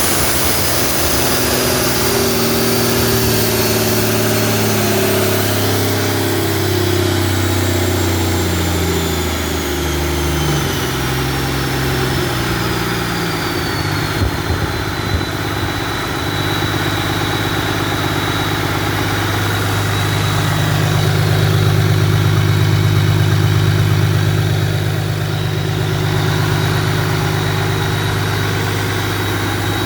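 Cummins 8.3-litre six-cylinder diesel running in after a major overhaul. Its speed shifts over the first dozen seconds while a high whistle falls steadily in pitch, then it settles into steady running.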